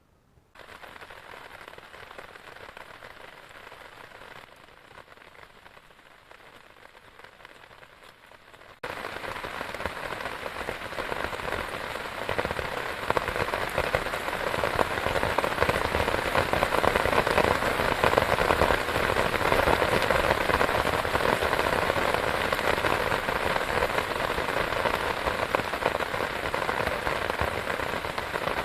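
Heavy rain falling and pattering on a surface: lighter at first, then abruptly much louder about a third of the way in, and heavier still a few seconds later.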